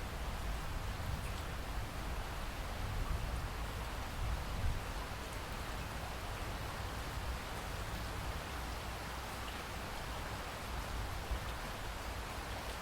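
Steady rain falling, with a deep, constant low rumble underneath and a couple of brief louder moments.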